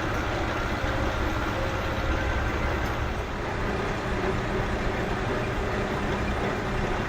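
Diesel railcar engine running steadily with a low rumble.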